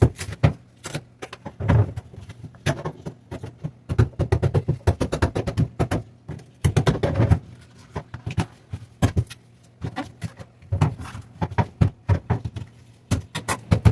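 A chisel knocking and scraping at old fiberglass to lift the lip of a removed bulkhead. It comes in bursts of rapid clicks and knocks every second or two.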